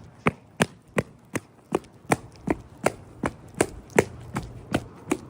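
A steady, even series of sharp knocks or crunches, close to three a second.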